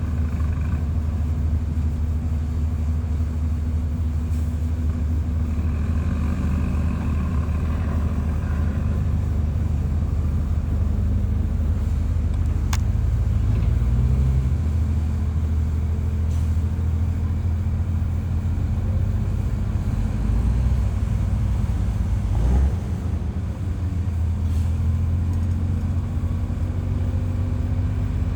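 Diesel engine of heavy earthmoving machinery running steadily under load, with a brief dip in level a little over twenty seconds in and the engine note rising slightly afterwards.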